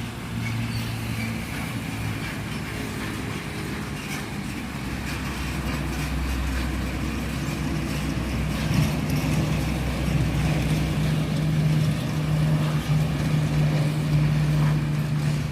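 Roadside highway traffic with a heavy truck's engine running; a deep steady engine note comes in about halfway and grows louder as it comes closer.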